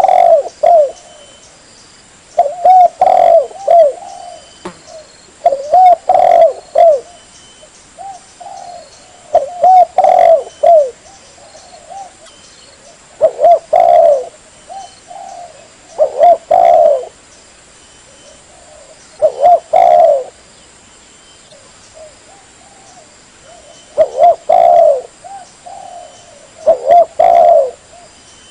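Spotted dove cooing: about nine short phrases of a few low coos each, repeated roughly every three seconds, as in a lure call for doves.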